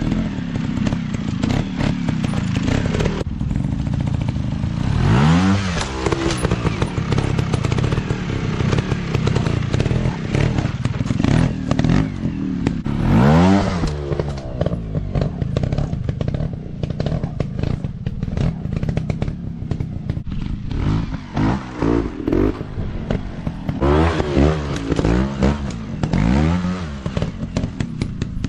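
Dirt bike engines revving up and dropping back again and again, with several sharp throttle rises and a run of quick blips near the end, over steady clatter.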